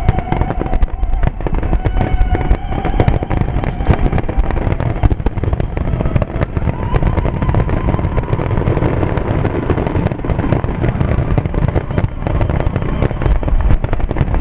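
Aerial firework shells bursting in a dense, unbroken barrage, loud booms and crackles overlapping with no pause.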